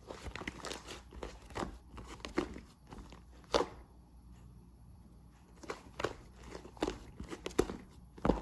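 Irregular crunchy clicks and crackles, one sharper snap in the middle followed by a short quieter stretch before the crackling picks up again.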